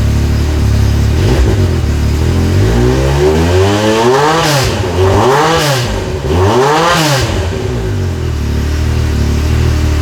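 Yamaha YXZ1000R's three-cylinder engine idling through its exhaust, then blipped three times in quick succession, each rev rising and falling, before settling back to idle.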